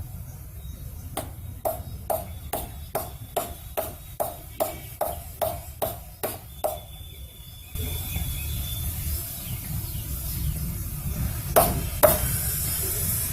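A hammer tapping metal about twelve times, roughly two taps a second, each with a short metallic ring. Two louder knocks follow near the end. This is typical of a wheel bearing being driven into its hub.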